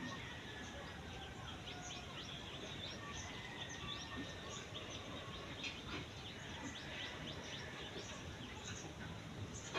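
Faint bird chirping: many short, high chirps scattered throughout, with a few longer thin whistled notes, over a low steady background hum.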